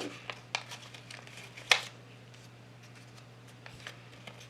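Sheet of paper being handled and folded: a few short crinkles and rustles, the loudest a sharp snap or tap about a second and a half in, and another small one near the end.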